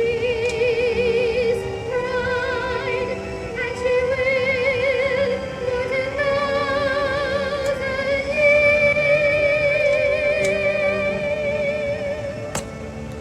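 Music led by a high voice singing long held notes with a wide vibrato, the melody stepping upward to a high note held for several seconds from about eight seconds in.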